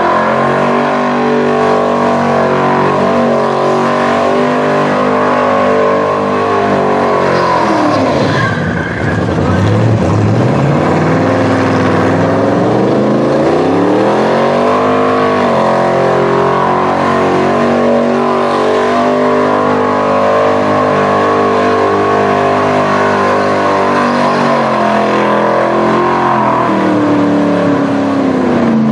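Holden farm ute doing a burnout: engine held at high revs with the rear tyres spinning and squealing. The revs drop about eight seconds in and climb back up a few seconds later, then hold high again.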